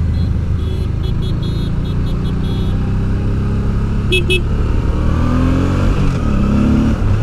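Motorcycle engine running at cruise, with wind and road noise. Its note climbs twice in the second half as the bike accelerates.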